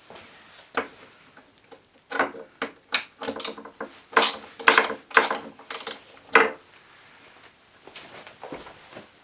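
Hand tools and metal parts clinking and clanking in irregular strokes, each with a short metallic ring, as an ATV is taken apart; the strokes are busiest in the middle and thin out near the end.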